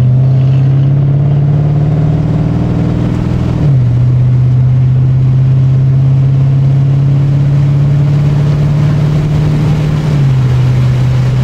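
Dodge SRT's engine and exhaust droning inside the cabin while driving: a steady low hum that climbs slowly and then drops suddenly twice, about four seconds in and again near the end, as the car shifts up a gear.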